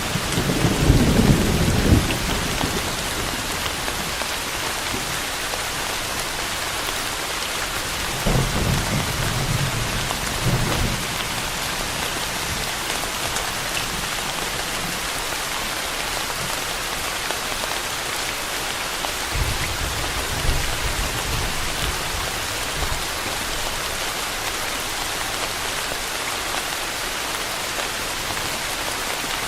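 Steady rain falling, with low rumbles of thunder three times: at the start, about eight seconds in, and about twenty seconds in.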